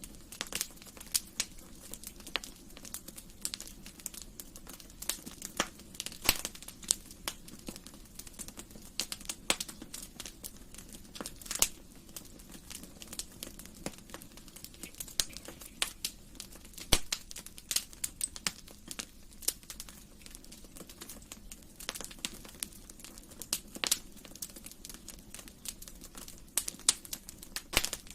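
Wood fire burning in a fireplace: a steady low hiss with frequent irregular crackles and sharp pops.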